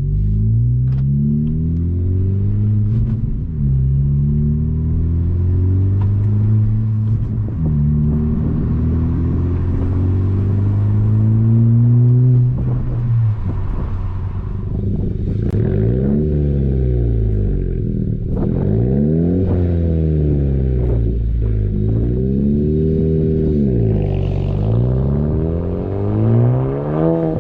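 2017 Honda Civic Si's turbocharged 1.5-litre four-cylinder through a MAPerformance race catback exhaust, essentially a straight pipe, with an aftermarket front pipe. The engine note climbs in pitch three times with a drop between each, then is revved up and let fall about five times in quick succession.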